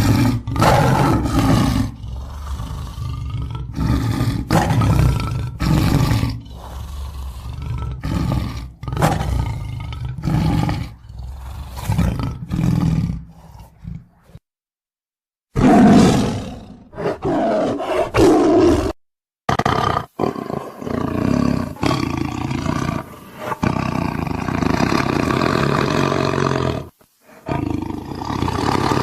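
Tiger growling and roaring in repeated rough bouts, broken by a few abrupt cuts to silence between spliced takes.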